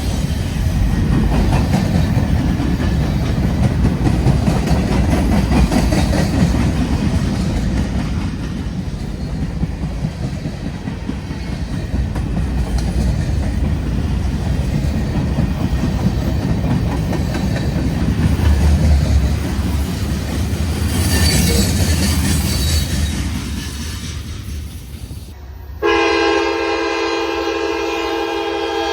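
CSX freight cars rolling past with a steady, heavy rumble of wheels on rail. Near the end, a locomotive horn comes in suddenly and holds a steady chord of several tones.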